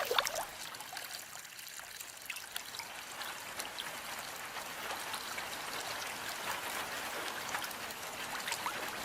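Rain falling with water trickling, a steady hiss dotted with sharp drop ticks, a few louder drips right at the start.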